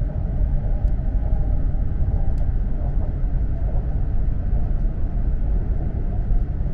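Steady low rumble of an E4 series Max double-decker Shinkansen running, heard inside the car from a lower-deck seat, with a couple of faint clicks.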